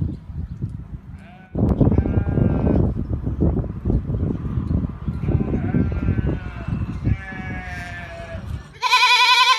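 Several bleats from sheep-or-goat-type livestock, wavering in pitch, with the loudest bleat coming near the end. A heavy low rumbling noise lies under them.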